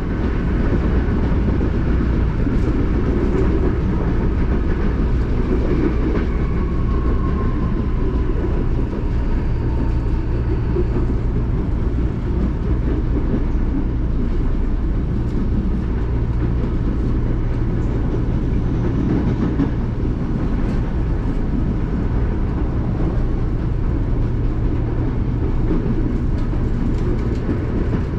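Electric commuter train of CPTM Line 11-Coral running on the track, a steady rumble of wheels on rails with a low hum, and a faint falling whine a few seconds in.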